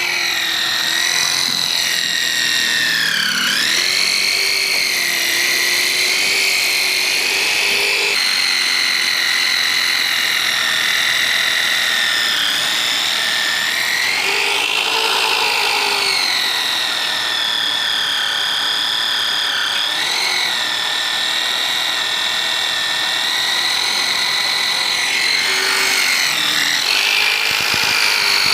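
Electric drill boring a hole through a steel truck chassis rail, its motor whining continuously, the pitch dipping several times as the bit bites under load and then recovering.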